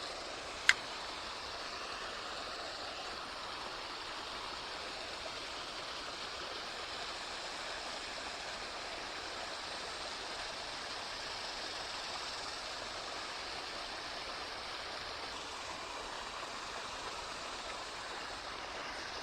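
Steady rush of creek water running. A single sharp click sounds less than a second in.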